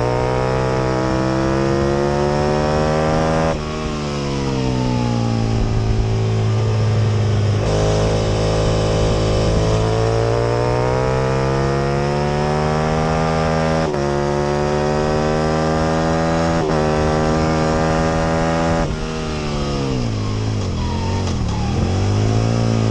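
Aprilia RSV Mille R's 998 cc 60-degree V-twin engine at race pace: it climbs in revs and drops sharply in pitch at two upshifts. Near the end it falls away under braking, with brief jumps in pitch from the downshifts, before pulling hard again.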